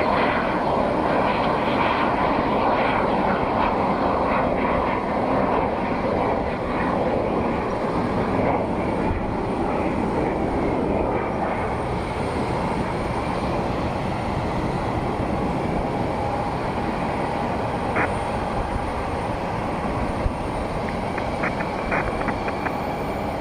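Jet airliner engine noise: a steady, loud rushing drone that eases off slightly in the second half.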